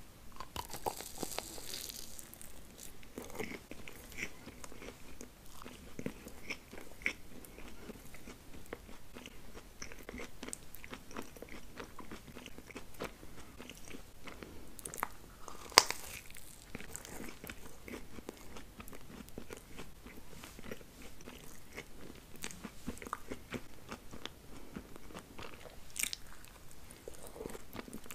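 A person biting into and chewing a small chocolate-covered candy: crisp crunches and sticky mouth sounds throughout. A sharp crack about sixteen seconds in is the loudest moment.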